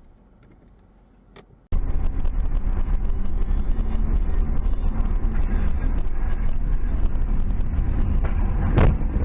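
Steady road and engine noise of a moving car, as picked up inside a dashcam-recorded car, cutting in abruptly about two seconds in, with one short sharp knock near the end.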